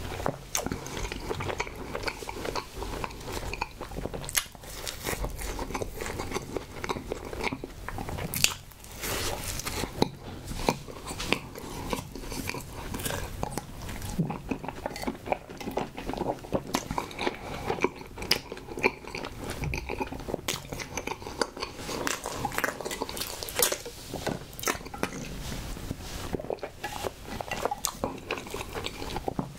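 Close-miked chewing of soft, pink coconut-coated snowball cakes: wet, sticky mouth sounds and small smacks. About halfway through comes a sip of strawberry milk drink through a straw.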